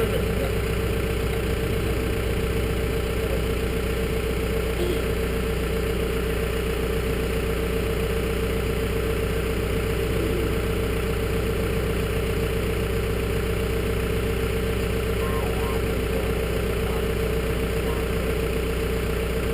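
Engine idling steadily with an even, unchanging hum.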